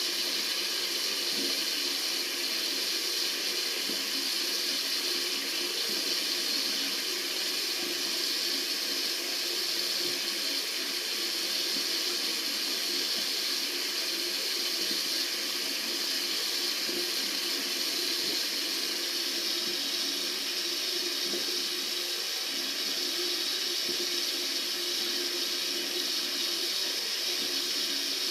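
Tap water running steadily from a faucet, an even, unbroken rushing hiss.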